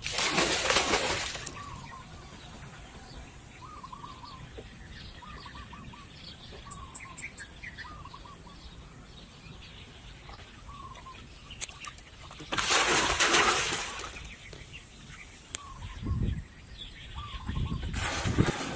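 Small birds chirping repeatedly in the background, with three loud rushing bursts of noise from an unseen source: one at the start, one about two-thirds of the way through and one at the end.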